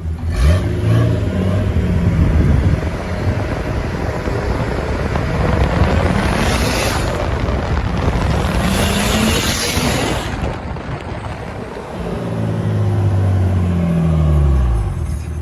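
Car engines revving and cars driving past; near the end one engine's note falls in pitch as it goes by.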